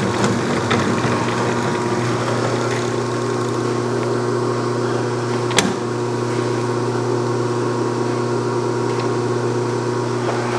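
Clausing Colchester metal lathe running steadily with its spindle turning, a steady hum, with one sharp click about halfway through.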